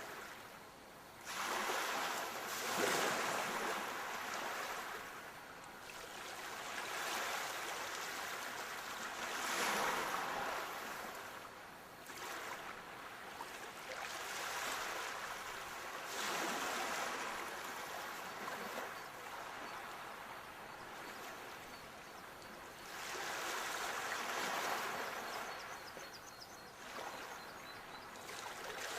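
Sea waves breaking and washing ashore, the surf rising and falling in uneven surges every few seconds.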